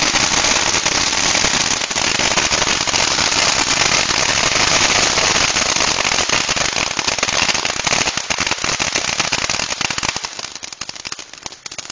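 Fireworks crackling: a dense, continuous run of sharp little pops that thins out to scattered pops about ten seconds in.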